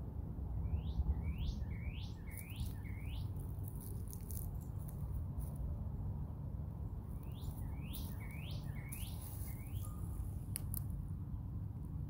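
A songbird singing two phrases, each of about five quick falling whistled notes, with a pause of about four seconds between them.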